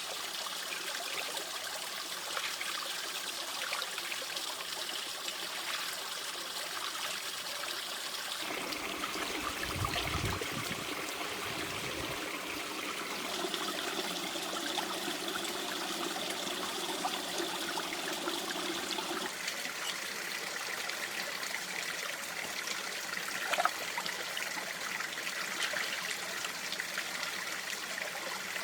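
Small stream trickling and running steadily, its tone shifting abruptly twice, with one short sharp tap late on.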